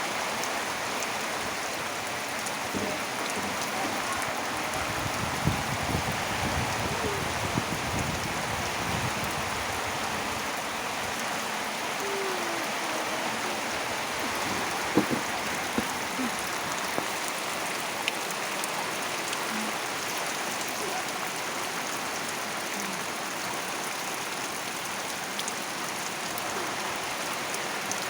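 Heavy rain falling steadily, with a few sharp louder drops now and then.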